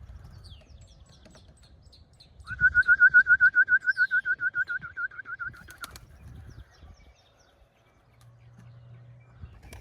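Racing pigeon flapping its wings in a fast, even rhythm of about seven beats a second, lasting about three seconds from two and a half seconds in.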